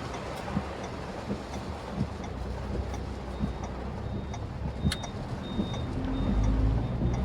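Steady road and engine noise from inside a moving Maruti Suzuki Swift Dzire, with a short run of high beeps in the middle. The engine grows louder near the end.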